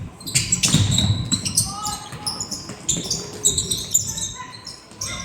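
Youth basketball game in play: a basketball bouncing on the court, with repeated sharp strikes, short high squeaks and distant voices of players and spectators.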